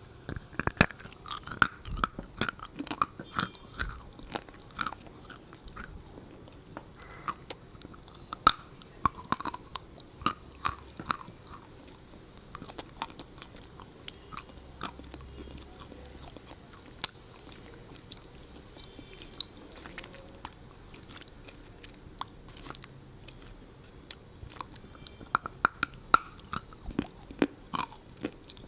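A person biting into and chewing crunchy food: sharp, irregular crunches, busiest in the first few seconds and again near the end, with slower chewing in between.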